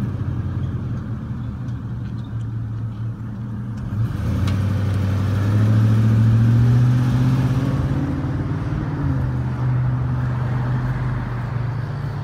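A 1999 Ford F-150's engine, with 282,000 miles on it, running; it speeds up and gets louder about four seconds in, then eases back down after about eight seconds.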